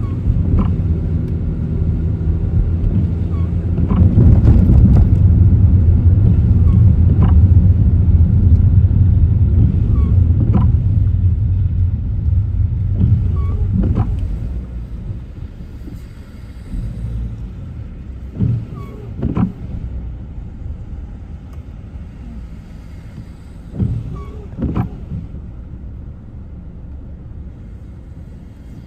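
Car driving on wet, flooded city streets: a loud low rumble of road and engine noise for about ten seconds, then quieter running with a few short thumps.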